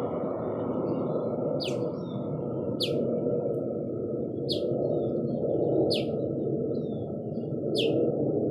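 A bird calling with sharp, short downslurred chips, five in a row about one to two seconds apart, over a steady low rushing background noise.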